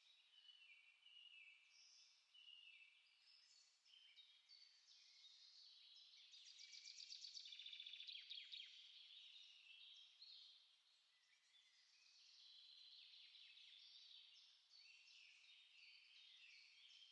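Small songbirds singing and chirping faintly, several overlapping phrases, with a louder rapid trill about halfway through.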